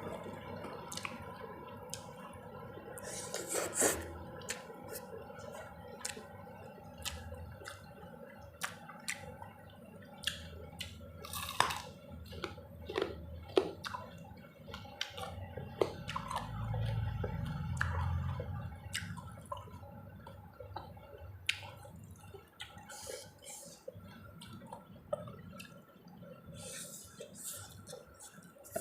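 Close-up eating sounds: wet chewing and mouth smacks with many short sharp clicks scattered throughout, and a low rumble about halfway through.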